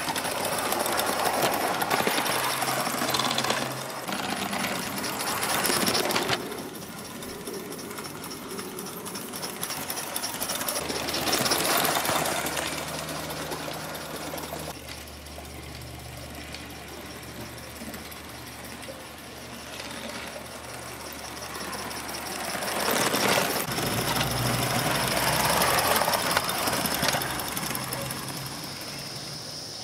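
Gauge 1 live steam C4 Atlantic model locomotive running, its exhaust beating rapidly; the sound swells and fades three times as the engine comes close and moves away again.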